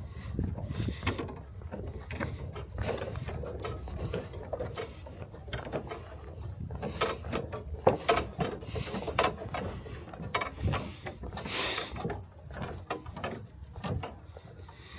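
Footsteps and irregular knocking and clattering on the wooden planks and fittings of a small rope suspension bridge as it is walked across.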